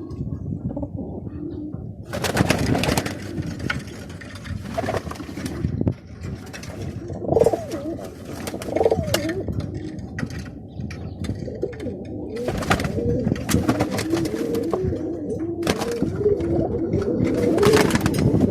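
Birmingham roller pigeons cooing in their breeding pens, a steady run of low, arching coos. Several short rustling bursts break in over the cooing.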